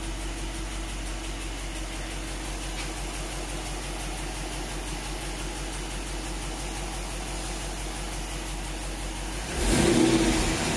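Jeep HEMI V8 in a Willys truck idling steadily while warming up, running on all cylinders on its first start after a rebuild. Near the end it briefly gets louder.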